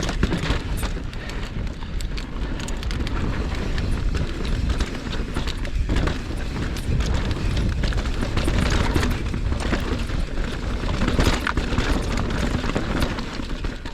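Mountain bike descending a dirt singletrack: the tyres rumble and the bike rattles and knocks over roots and bumps, over a steady rush of wind on the microphone at riding speed.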